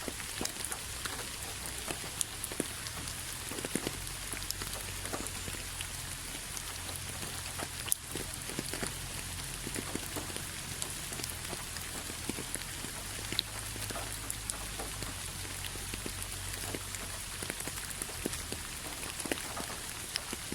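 Steady rain falling, an even hiss with many individual drops ticking on a surface, one sharper tap about eight seconds in.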